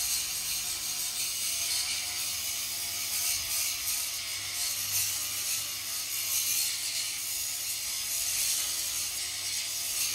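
Steady, rasping mechanical noise, mostly high-pitched, with no clear rhythm or break.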